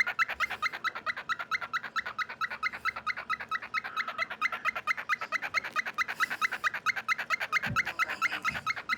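Cockatiel making a fast, even run of short, squeaky chirps, about eight a second, kept up without a break.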